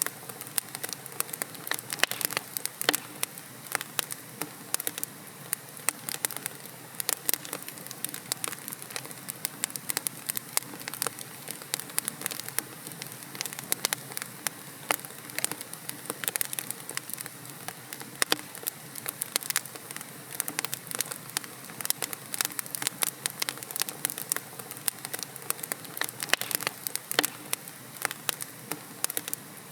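Wood logs burning in a fireplace, crackling and popping: dense, irregular sharp snaps over a steady low hiss of flame.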